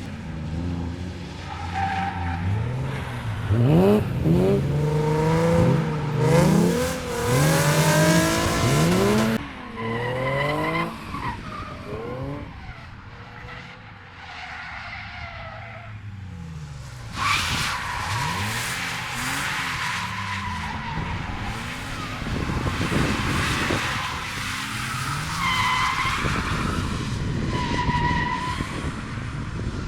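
Drift cars sliding past: an engine revving hard, its pitch swinging up and down rapidly, is loudest for several seconds near the start and cuts off suddenly. After a lull, tyres squeal in long, steady high tones over engine noise.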